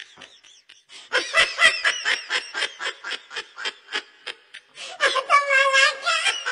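Laughter: quick repeated bursts, about four or five a second, then a longer held note a little after five seconds in.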